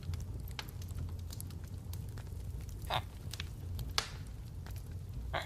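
Faint crackling background ambience: scattered clicks and pops over a low steady hum, with a couple of slightly louder pops about three and four seconds in.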